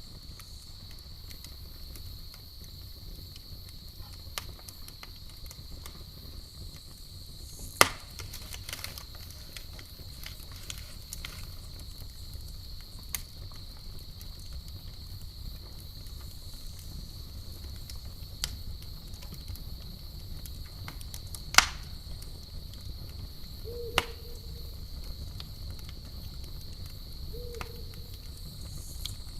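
Campfire burning with sparse crackling: a few sharp pops from the wood, the loudest about eight and twenty-two seconds in, over a low rumble and a steady high chirring of crickets. Two short low notes sound near the end.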